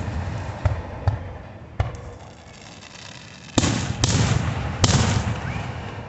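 Fireworks going off: a few small pops in the first two seconds, then three loud bangs in quick succession about three and a half to five seconds in, each trailing off as it fades.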